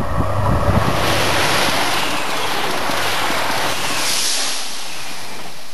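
Class 185 diesel multiple unit passing close by at speed: a loud rush of wheel and air noise that builds about a second in and holds as the carriages go past, with wind buffeting the microphone at the start.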